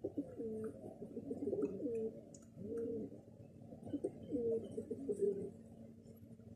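Low, cooing bird calls in four or five short bouts, each a soft tone that bends up and down in pitch.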